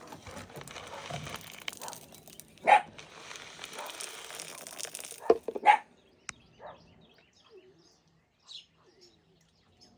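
Rustling, crunching noise with three short loud sharp calls, about two and three seconds apart. Then the noise stops, and after about six seconds only faint bird chirps are left.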